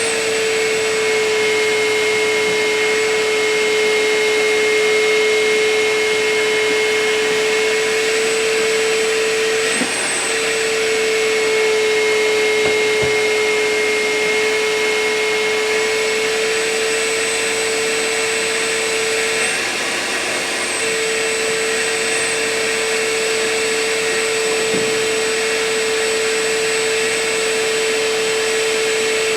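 Vacuum cleaner running steadily while vacuuming a truck's interior: a constant whine over a rushing hiss. Its tone wavers briefly twice, about ten and twenty seconds in.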